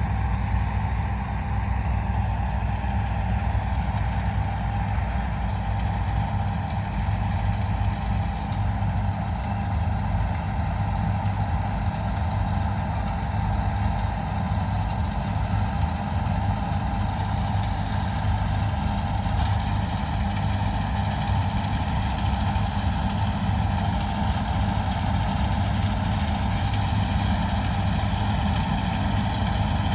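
Diesel engine of a John Deere harvest machine running steadily at constant speed, with a steady whine above the engine hum.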